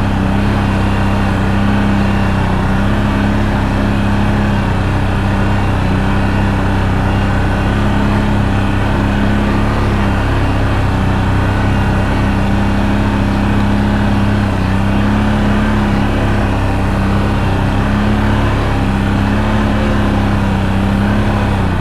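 ATV engine running steadily under load in low gear on a long uphill climb.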